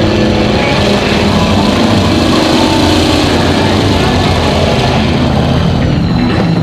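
A vehicle engine running loud and steady, its pitch wavering a little partway through.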